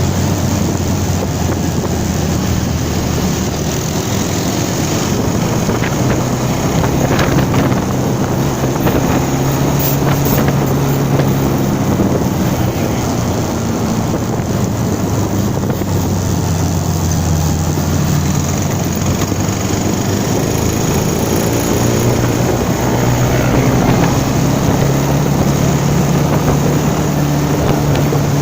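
Motorcycle riding along with its engine running steadily. Heavy wind rush on the microphone sits over it, and the engine note shifts slightly in pitch now and then.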